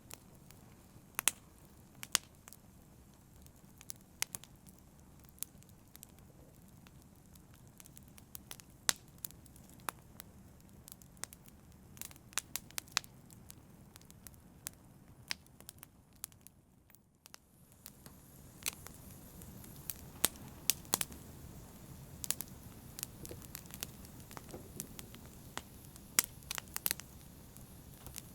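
Campfire burning, with sharp, irregular crackles and pops from the wood over a steady low rumble of flame. The background dips briefly about two-thirds of the way through, then comes back slightly louder.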